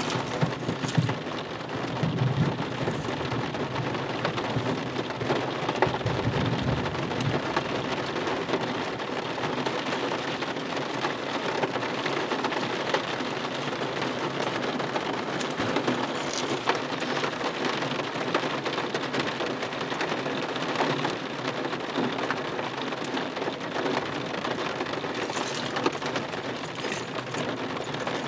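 Steady heavy rain from a thunderstorm, with low rumbles of thunder a couple of seconds in and again around six seconds in.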